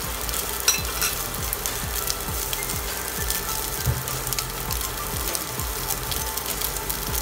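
Cubes of luncheon meat sizzling in hot oil in a cast-iron skillet: a steady frying hiss with constant small crackles and a sharper pop just under a second in.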